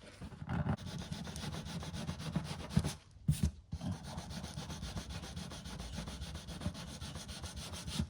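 Hand sanding of cured UV body filler with 320-grit paper on a sanding block: quick, continuous back-and-forth rubbing strokes. A brief pause about three seconds in, with a couple of knocks, before the sanding resumes.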